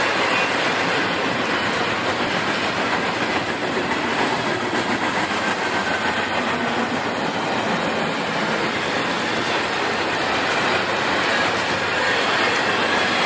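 A train's cars rolling past close by: a steady, loud noise of steel wheels running on the rails.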